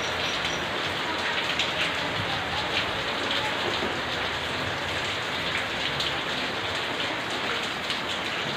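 Steady rain falling, with many individual drops striking close by against the even hiss of the downpour.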